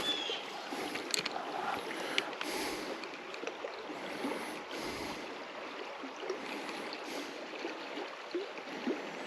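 River water running steadily, with a few light clicks in the first couple of seconds.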